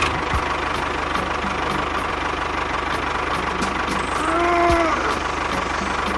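Small engine idling steadily with an even, rapid knocking rhythm. A brief pitched tone rises and falls about four and a half seconds in.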